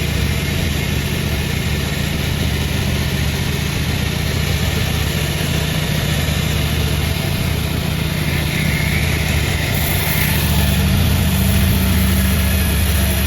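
Sawmill machinery running with a steady engine drone. About ten seconds in it grows a little louder and a high hiss joins it.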